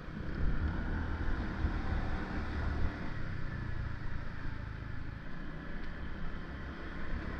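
Gusty wind rumbling on the microphone during a ride, over the steady running noise of the vehicle and road.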